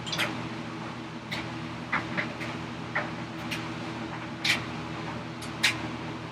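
Short, irregular light scratches and clicks of a marking tool being drawn along a layout line on a wooden workpiece, over a steady low hum.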